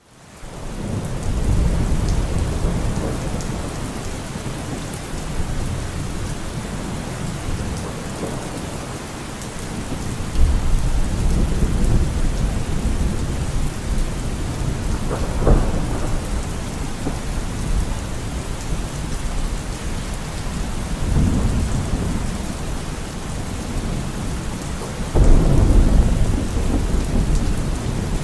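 Steady rainfall with thunder rolling low several times, including one sharper clap about halfway. The sound fades in over the first second or two.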